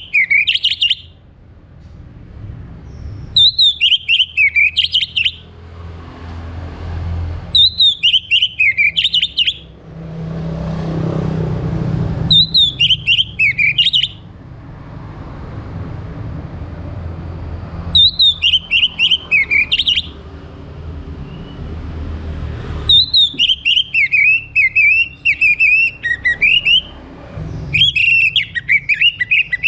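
Orange-headed thrush (anis merah) singing loud, two-second phrases of slurred whistles that fall and rise, with high twitters over them. The phrases repeat every four to five seconds, and one longer run comes near the end. A low rumble sounds in the gaps between phrases.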